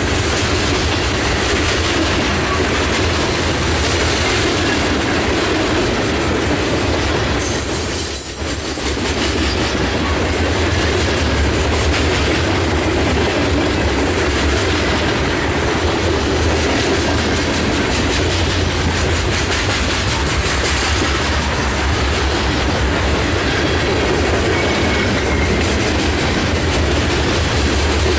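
Freight cars of a passing CSX grain train rolling by close at hand: a steady rumble and rattle of steel wheels with clickety-clack over the rail joints.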